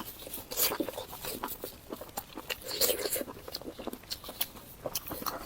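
Close-up eating sounds of big steamed dumplings with pickled-cabbage filling: biting and chewing with many short, wet mouth clicks and smacks.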